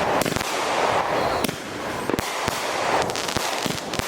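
Consumer fireworks going off: a string of sharp bangs at irregular intervals over steady crackling and hissing.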